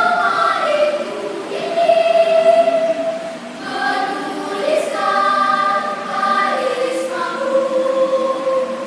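Children's choir singing in parts, holding long notes that change every second or two.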